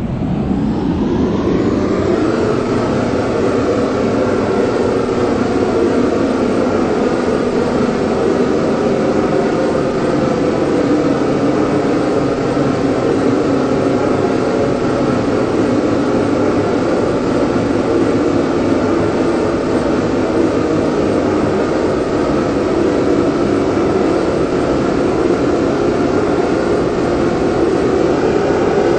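Helicopter running steadily and loudly, its pitch rising over the first couple of seconds and then holding.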